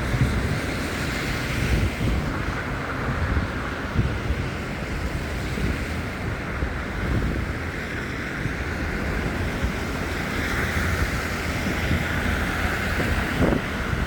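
Wind buffeting a handheld phone's microphone in a snowstorm: a continuous rough rumble with a steady hiss behind it.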